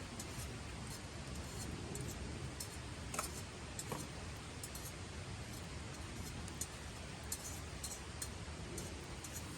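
Wood campfire crackling: scattered sharp pops and ticks, two of them louder about three and four seconds in, over a steady low rush.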